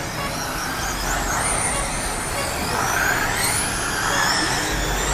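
Electric RC sprint cars racing on a dirt oval. Their motors whine high, several at once, each rising and falling in pitch as the cars speed up and slow for the turns, over a steady background hiss.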